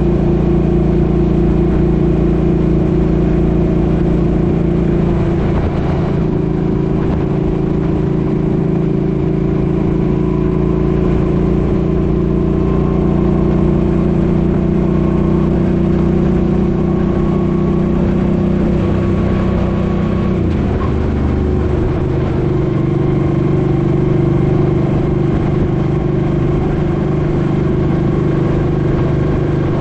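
Suzuki Boulevard M50's V-twin engine running steadily under way. Its note shifts about six seconds in and drops about twenty-one seconds in.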